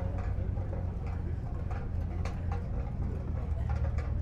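Car engines idling, a steady low rumble, with scattered light clicks over it.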